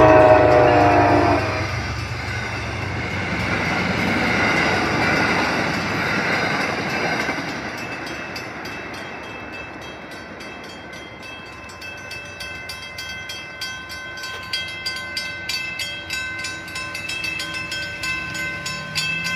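An MBTA commuter train's horn sounds a chord that cuts off about a second in. Then comes the rumble of the train crossing and running away, loudest a few seconds in and slowly fading. In the second half the grade-crossing bell keeps ringing steadily.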